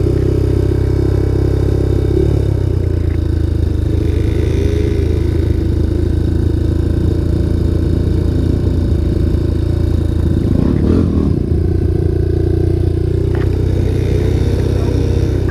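Honda Tornado 250's single-cylinder four-stroke engine running steadily just after catching on a bypassed starter, with a couple of slight rises in pitch and a brief clatter about ten and a half seconds in.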